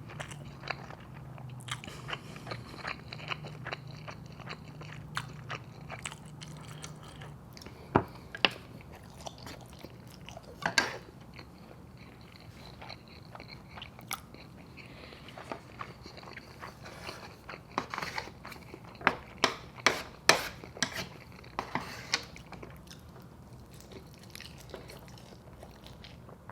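Close-miked eating: chewing and biting, with many scattered sharp clicks and wet mouth sounds. The loudest clicks come in a pair about eight seconds in, once near eleven seconds, and in a cluster from about eighteen to twenty-two seconds. A low hum runs under the first seven seconds or so.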